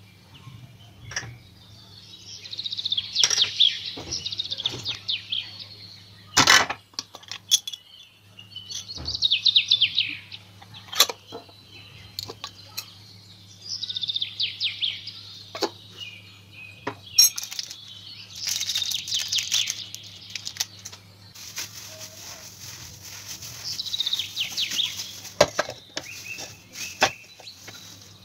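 A small songbird chirping and trilling in repeated bursts of a second or two, every few seconds, with a few sharp clicks of a metal spoon on a glass dish.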